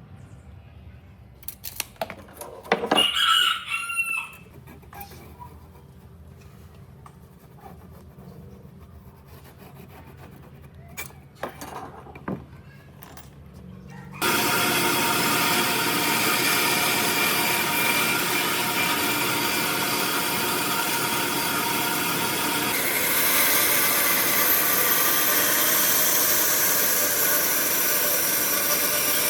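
A rooster crows once, a few seconds in, against scattered light knocks. About halfway through, a power tool starts abruptly and runs steadily on wood, its sound shifting about two-thirds of the way in.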